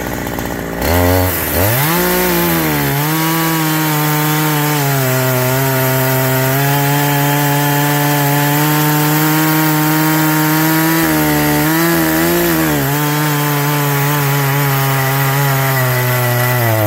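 Two-stroke chainsaw revving up about a second in and then running at steady high revs as it cuts through a log. Its pitch dips briefly as it loads up, once near the middle and again near the end.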